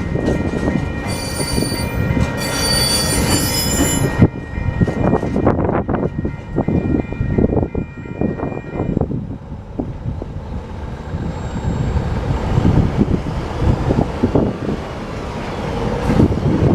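Freight train rolling past close by: a steady rumble of wagons on the rails, with a loud, high-pitched wheel squeal for about three seconds near the start and a run of sharp clanks as wheels cross the rail joints a few seconds later.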